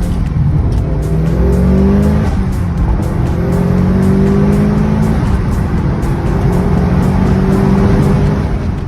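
Mitsubishi Lancer Evolution IX's turbocharged four-cylinder engine accelerating hard through the gears. The pitch climbs in each gear and drops at each shift, about three pulls in all.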